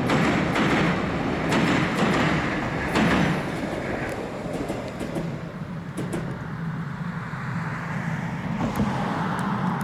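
Passenger train running over a steel girder railway bridge: a steady rumble with wheel clacks on the rail joints, loudest for the first three seconds, then fading as the last cars move away.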